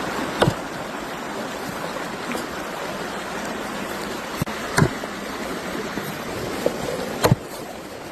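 Steady rushing of a stream, with a few sharp knocks: one about half a second in, two close together just before five seconds, and one past seven seconds.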